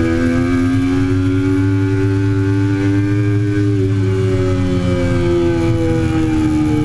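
2008 Triumph Daytona 675's three-cylinder engine running hard on track, its pitch climbing for about three and a half seconds and then falling away.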